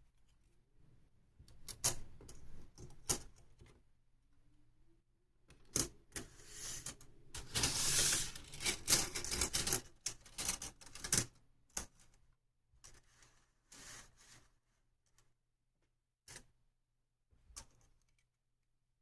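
Small hard plastic parts clicking and rattling as they are handled, with a dense run of clicks in the middle and a few single clicks near the end.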